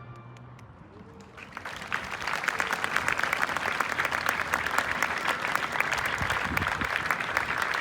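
The last chord of a brass fanfare dies away, then an audience breaks into applause about a second and a half in, the clapping holding steady.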